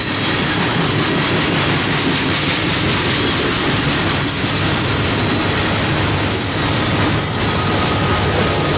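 Cars of a loaded coal train rolling past at steady speed: a continuous rumble of steel wheels on rail with clicking over the joints.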